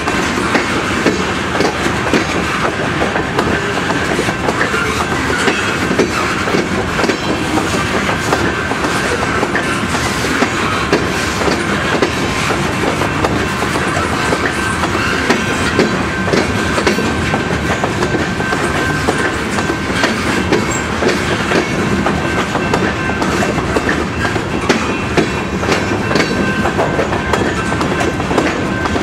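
Freight cars of a long train rolling steadily past, a continuous rumble with rapid clicks of wheels crossing rail joints.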